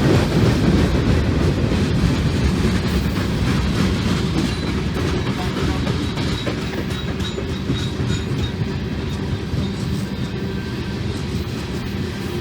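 Freight train rolling past: the steady rumble and clatter of steel wheels on rail, gradually getting quieter.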